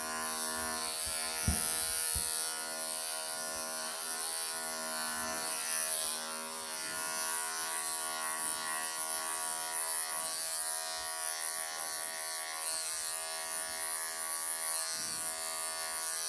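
Wahl electric pet clippers running with a steady buzz as they shave the long fur and knots from a Persian kitten's rear and hind legs.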